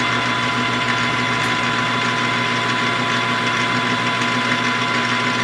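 Metal lathe running steadily with a constant motor whine and hum, while a chamfer tool takes a light 15 to 20 thou chamfer on the edges of the spinning part.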